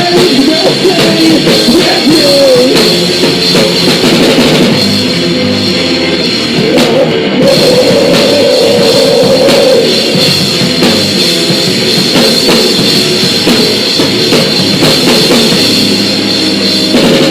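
Live rock band playing loud, distorted electric guitars over a pounding drum kit, heard through a phone microphone close to the stage and near clipping.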